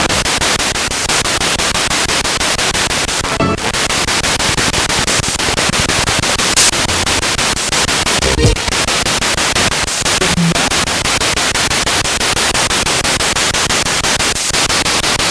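Spirit box radio sweeping fast through stations: loud, continuous static chopped into quick, even pulses, with a few brief snatches of broadcast sound breaking through.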